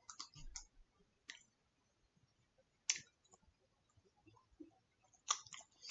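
Quiet eating sounds from chewing a mouthful of poutine: a few short, scattered wet mouth clicks and smacks, the loudest about three seconds in and a small cluster near the end.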